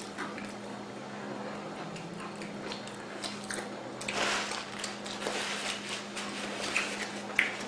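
Close-miked eating: biting and chewing food, with short crackles and smacks, over a steady low hum.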